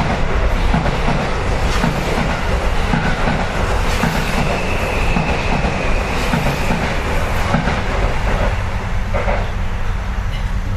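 Train rumbling and clattering on the adjacent track, heard from inside a stationary Seibu 4000 series car, with a steady high whine for a few seconds in the middle.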